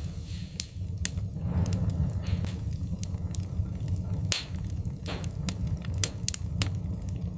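Wood fire crackling, with sharp pops at irregular intervals over a steady low rumble of the flames.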